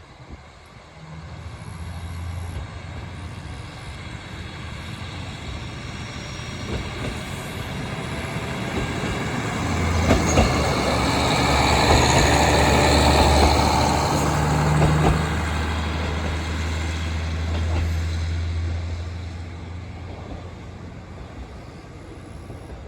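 JR Hokkaido KiHa 40 diesel railcar pulling away from the station. Its diesel engine drones and grows louder as the car passes, with a few sharp clicks from the wheels near the middle. The sound then fades away.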